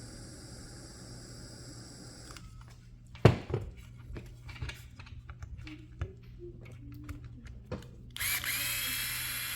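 A handheld torch hissing steadily, cut off about two seconds in, used to heat threadlocked screws. Then metal tools are handled with scattered clicks and knocks, one sharp knock the loudest. Near the end a louder steady mechanical whir with a whine starts up.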